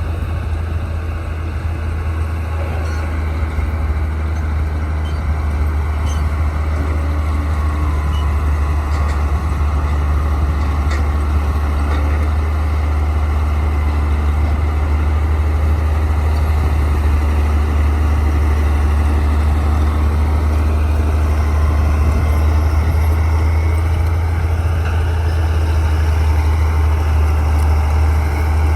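Bulldozer's diesel engine running steadily with a deep, low drone, growing slightly louder toward the end.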